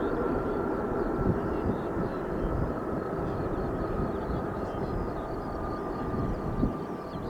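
Boeing 787-9 Dreamliner's jet engines running: a steady rumble with a high whine that slowly drops in pitch as the sound eases.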